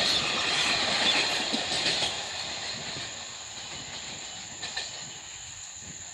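Running noise of a receding passenger train's coaches: wheels rumbling and clattering on the rails, fading steadily as the last coach draws away.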